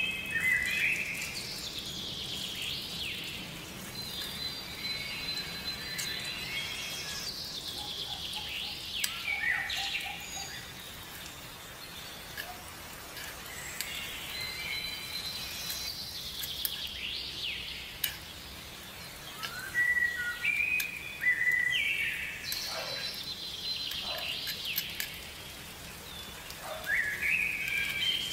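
Birds chirping and singing: repeated short whistled phrases and chirps, some gliding in pitch, over a faint steady hiss.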